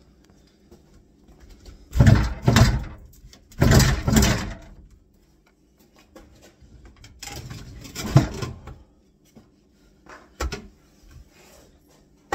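Kitchen cabinet drawers and doors being opened and shut: three longer sliding, rattling bursts, then a few smaller knocks near the end.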